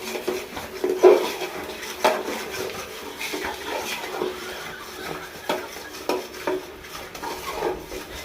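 Metal ladle scraping and knocking against a cooking pot as spices are stirred, in irregular strokes about once a second.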